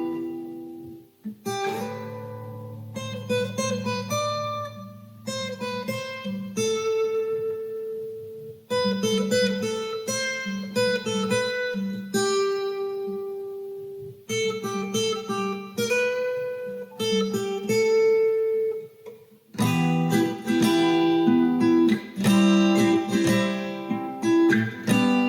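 Acoustic guitar intro: picked chord patterns of separate ringing notes, broken by a few short pauses, turning into fuller, louder strumming about twenty seconds in.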